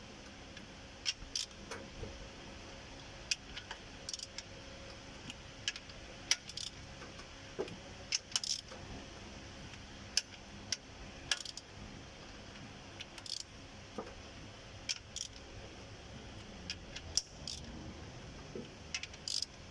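Irregular sharp metallic clinks of a wrench working the bolts of an oil seal installer tool, tightened in turn to press in a truck's rear crankshaft oil seal.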